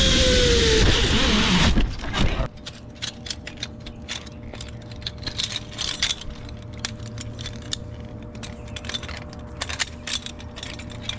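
Zip line trolley running along the steel cable with rushing air and a whine that falls in pitch as it slows. It cuts off about two seconds in, and then comes light clinking and rattling of metal harness gear.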